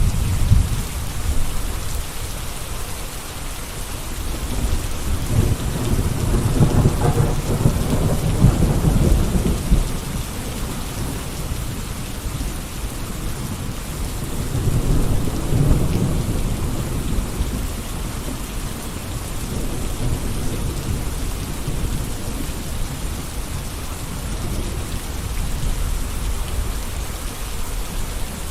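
Gentle rain falling steadily, an even hiss throughout. Low rumbles swell and fade a few times underneath, the longest about a quarter of the way in.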